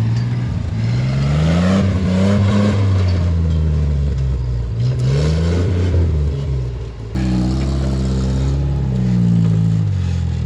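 Off-road rock-crawling truck engine revving up and down several times, its pitch rising and falling under throttle. The sound changes abruptly about seven seconds in.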